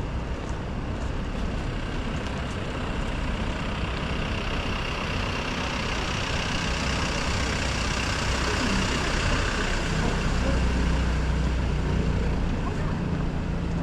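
City street traffic with the engine of a heavy vehicle such as a truck or bus running close by. It is a steady rumble and hiss that grows louder in the second half.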